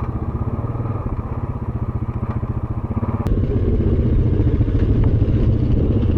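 Honda ATV's single-cylinder engine running under way with a steady rapid pulse. About three seconds in there is a sharp click and the engine gets louder.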